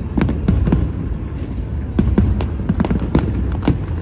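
Fireworks display: a dozen or so sharp bangs and crackles at irregular intervals over a steady low rumble of further bursts.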